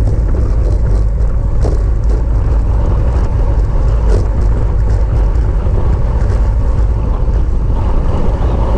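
Steady wind buffeting on the camera microphone while riding at race speed, a loud low rumble.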